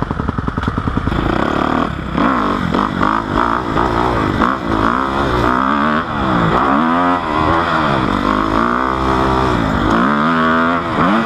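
Dirt bike engine revving, its pitch climbing and dropping again and again as it accelerates and shifts, after a quick steady pulsing at the start.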